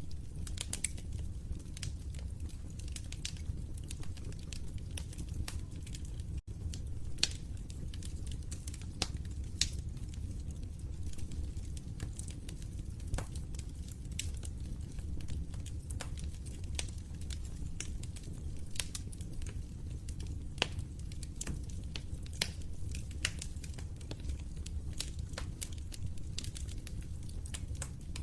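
Open fire crackling: frequent irregular sharp pops and snaps over a steady low rumble of the flames, with a momentary dropout about six seconds in.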